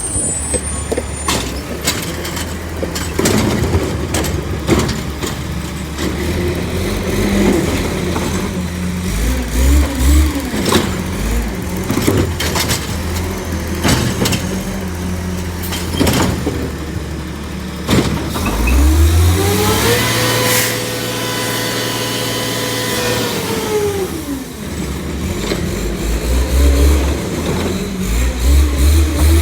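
Garbage truck with a Bridgeport Ranger packer body idling amid repeated metallic clanks and knocks. About 19 seconds in the engine revs up, holds high for about five seconds, then drops back to idle: revving to drive the packer's hydraulics.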